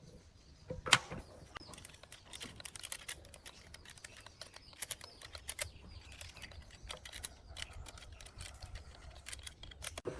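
Irregular light clicks and taps of small metal parts being handled, with one sharper knock about a second in.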